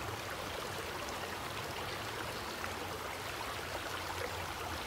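Water of a stream flowing over rocks, a steady rushing noise.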